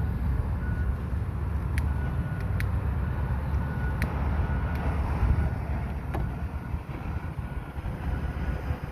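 Wind buffeting the microphone with a steady low rumble, and a few sharp clicks scattered through it.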